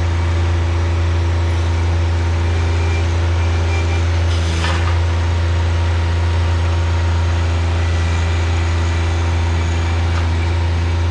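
An engine running steadily at a constant speed, a deep unchanging hum, with a brief rushing noise about four and a half seconds in.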